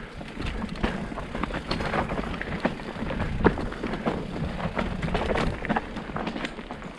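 Bike tyres rolling over a loose, rocky trail, with many short clicks and knocks of stones and rattling parts, and a low wind rumble on the microphone.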